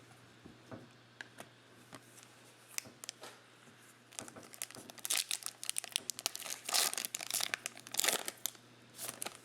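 Foil trading-card pack wrapper being handled and torn open: a few light clicks at first, then from about four seconds in a dense run of crinkling and tearing plastic. A faint steady electrical hum sits underneath.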